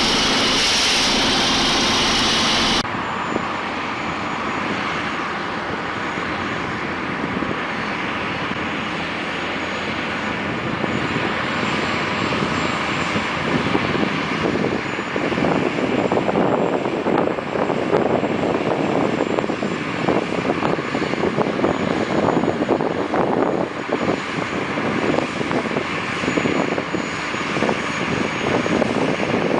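An engine running steadily, with a sudden cut to a different recording about three seconds in; after the cut the engine noise is rougher and grows somewhat louder.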